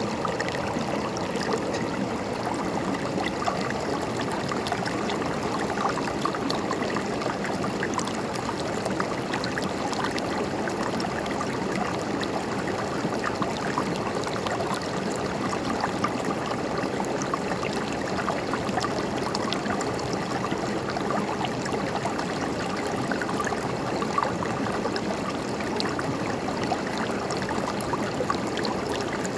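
River water flowing and gurgling over stones in a steady rush, with a fine patter of small splashes.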